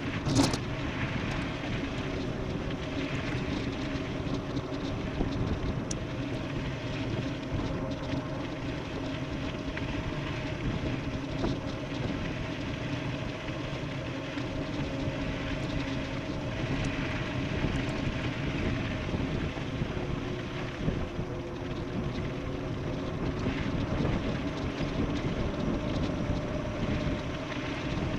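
Electric mountain bike riding fast downhill: steady tyre and wind noise with a constant whine underneath, and a single sharp click about half a second in.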